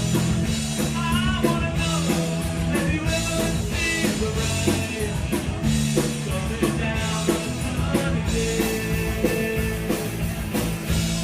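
Punk rock band playing live: electric guitar, bass and drum kit at a fast, driving beat, with a lead voice singing over them.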